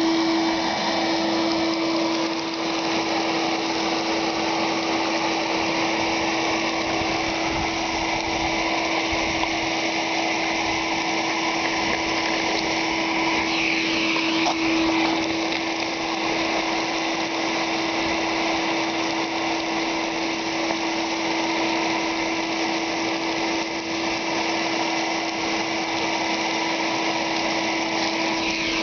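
Sears Craftsman 5.0 hp wet/dry shop vac running steadily with a constant high motor whine, its floor nozzle sucking up sand, grit and small pebbles from a driveway.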